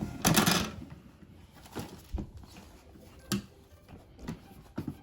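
Plastic toy pieces being handled: a brief burst of noise just after the start, then scattered light clicks and knocks.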